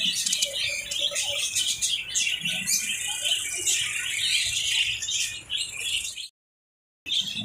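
Lovebirds chirping and chattering, many quick overlapping high chirps and squawks. The sound cuts off abruptly about six seconds in, falls silent for under a second, then resumes.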